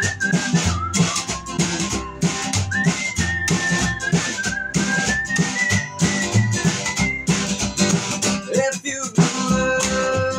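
Instrumental break of a country trio: acoustic guitar, bass and drum kit playing a steady beat, with a high held melody line gliding between notes over the top.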